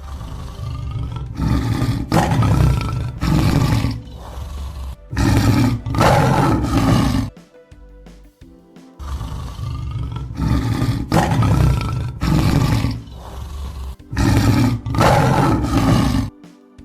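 A big cat roaring in two bouts, with a short pause about seven seconds in. Each bout is a series of repeated roars that get louder toward its end.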